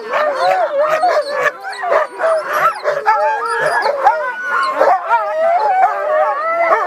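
Many sled dogs howling, yipping and barking together, their calls overlapping all the way through. This is the excited din of a sled-dog yard before a run.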